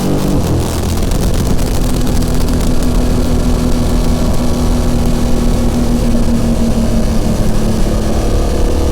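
BMW F900XR motorcycle's parallel-twin engine and exhaust running at fairly steady revs while riding, with wind noise over the microphone; the engine pitch begins to rise slightly near the end.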